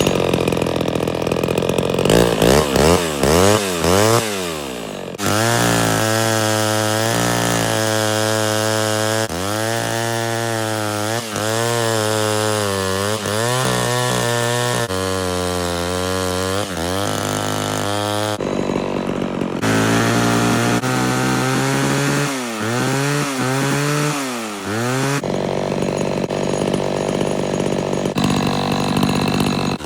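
Vintage Pioneer 1200A two-stroke chainsaw running hard while cutting a tree, its engine pitch rising and falling again and again, with stretches held steady.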